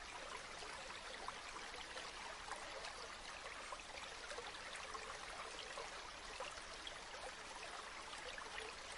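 River water flowing steadily: a continuous wash of water with fine burbling.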